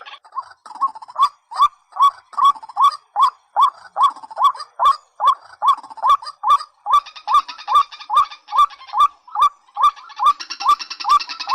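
Recorded rail calls (a waterhen or watercock lure track): a long series of short notes that hook upward, about two and a half a second, each with a sharp click. About ten seconds in, a second, denser layer of calls joins.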